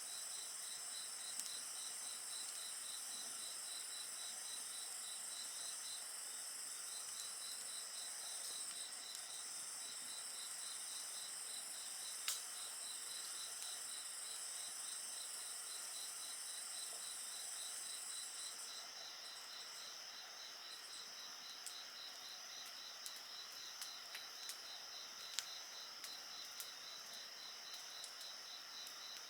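Night insects singing: a rhythmic chirp repeating about three to four times a second, over a steady high-pitched trill that stops about two-thirds of the way through. Faint crackles and pops from a wood bonfire, one sharper pop near the middle and several more toward the end.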